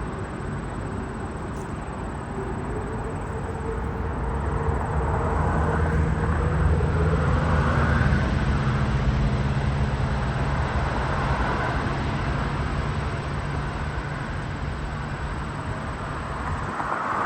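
Airbus A380's four jet engines at takeoff power: a deep, noisy rumble with a low steady drone, growing louder a few seconds in and then slowly easing.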